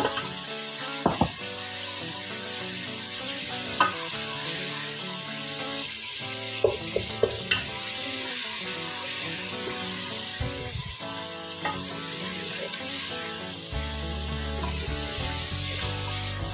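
Chopped onions and crushed garlic sizzling steadily in hot oil in an aluminium pot, being sautéed to cook off the garlic's rawness. A wooden spoon stirs them, knocking against the pot now and then.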